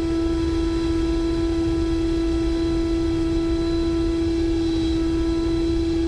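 Electric ducted fan of an HSD 105mm Super Viper RC jet, heard from an onboard camera in flight: a steady whine holding one pitch, over a low rumble of wind.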